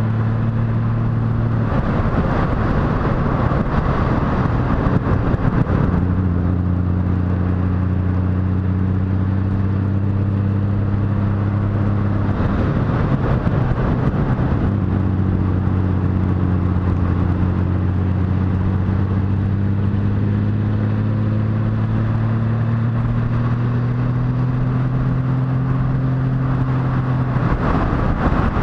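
Motorcycle engine running under way, a steady hum that slowly rises in pitch. It is broken three times by a few seconds of louder, rougher noise, after which the hum picks up again at a lower pitch.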